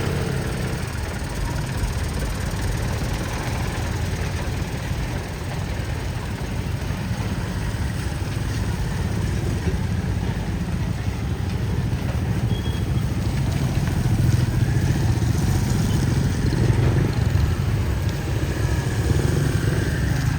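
Low, steady rumble of vehicle engines running on the road, growing louder about two-thirds of the way in as traffic draws closer.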